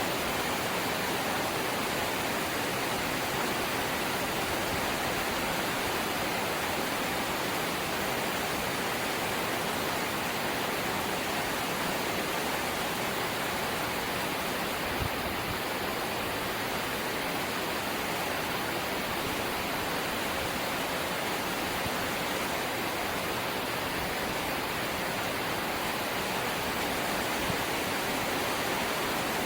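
Steady rain drumming on a corrugated zinc (seng) roof, a dense even hiss of drops with one sharper tap about halfway through.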